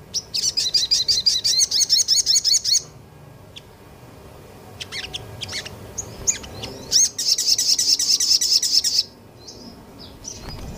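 Small songbird singing long runs of rapid, high, repeated chattering notes, in two bursts of about two seconds each, with scattered single chirps between them.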